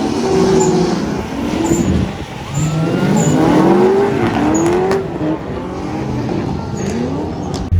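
Drift car engines revving up and down, the pitch sweeping up and falling back again and again, with tires squealing.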